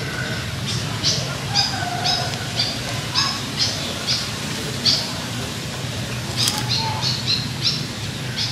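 Small birds chirping: short, sharp high chirps about two a second, pausing once midway, over a steady low background hum.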